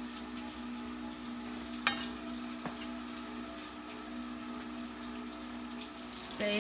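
Hot fat sizzling steadily in a pan, with a faint steady hum underneath and a single sharp click about two seconds in.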